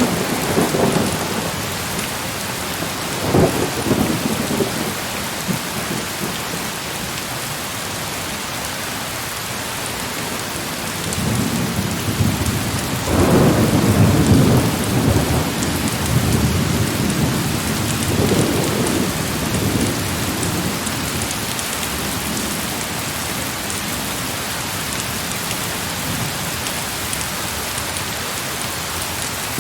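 Heavy rain falling steadily, with rolling thunder rumbling through it: a short roll a few seconds in, a long, louder roll around the middle, and a smaller one soon after.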